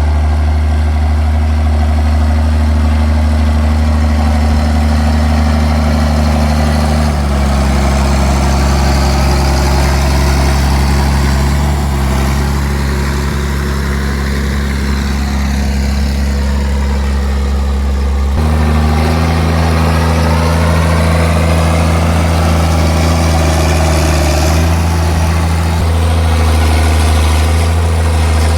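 Straight-piped John Deere 4630's six-cylinder turbo diesel running steadily under field load, with its unmuffled exhaust note. The engine note drops slightly about seven seconds in and comes back up about eighteen seconds in.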